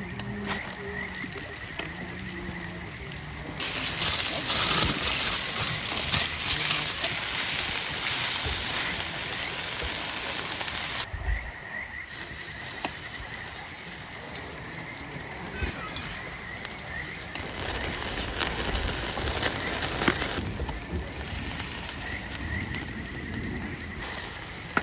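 Skewered food sizzling on a campfire grill: a hissing sizzle that jumps abruptly louder about four seconds in and cuts off at about eleven seconds, with quieter sizzling and faint crackles around it.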